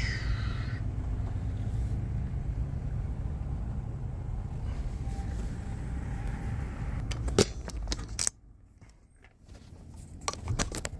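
Vehicle engine running with a steady low rumble, then a couple of sharp clicks, and the sound cuts off suddenly about eight seconds in. Scattered clicks and handling noise follow near the end.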